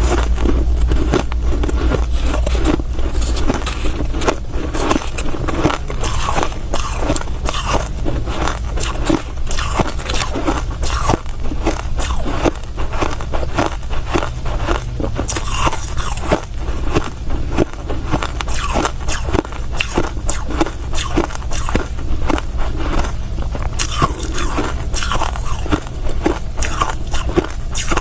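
Close-up chewing and crunching of soft white crushed ice, a dense run of crackly crunches with no pauses.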